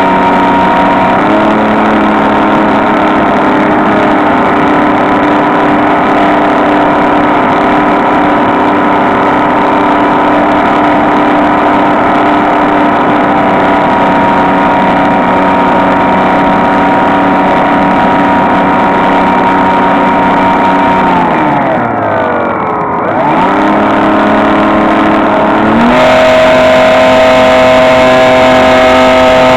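Electric motor and propeller of a HobbyKing SkyEye FPV plane whining steadily. About two-thirds of the way through, the throttle is cut and the pitch falls away, then it climbs back and steps up to a higher pitch near the end.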